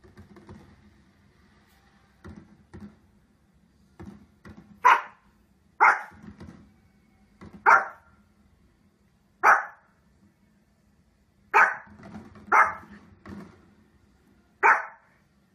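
A Pomeranian barks seven times: short, sharp barks a second or two apart, starting about five seconds in.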